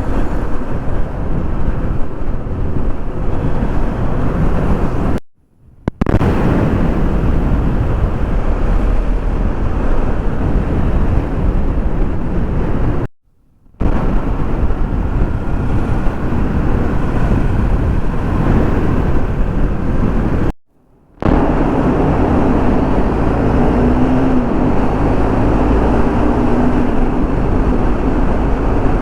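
Wind rushing over the microphone of a moving motorcycle, with engine and traffic noise beneath it, cut off briefly three times.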